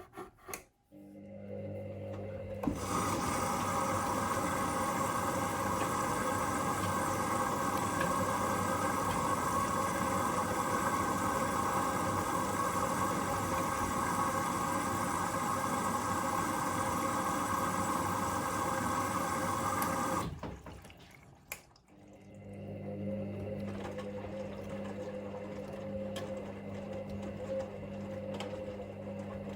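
Hoover Link washing machine filling with water for the main wash: a hum comes on, then water rushes in steadily through the inlet about three seconds in. The rush cuts off suddenly about twenty seconds in. A couple of seconds later a steady hum returns with a quieter flow.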